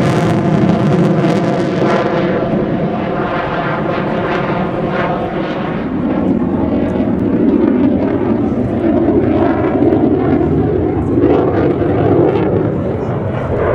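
Loud jet noise from the Mitsubishi F-2B fighter's single turbofan engine as it flies its display. The high hiss fades after about two seconds, and the deeper roar swells again later.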